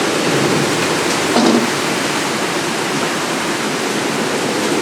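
Heavy rain pouring down in a steady, dense hiss: a hard monsoon-style downpour.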